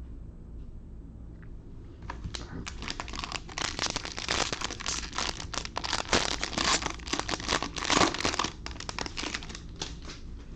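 Plastic wrapper of a trading-card pack crinkling and tearing as it is opened, starting about two seconds in and dying down shortly before the end.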